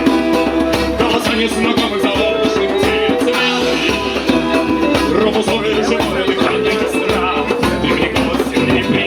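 A band playing live music: pitched instruments holding and changing notes over a steady rhythm with a shaker-like rattle, and some singing.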